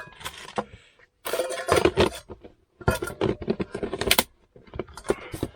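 Small camping supplies being handled and gathered up: irregular rustling with light metallic clinks and clatter, as of a mug and spoon among packets.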